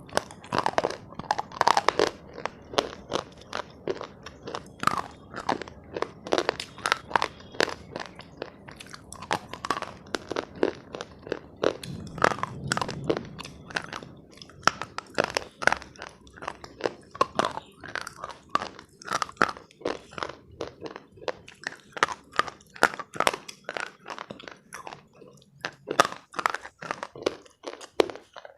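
Close-miked crunching and chewing of a dry, brittle material by a person, a steady run of sharp crunches, a couple or more a second.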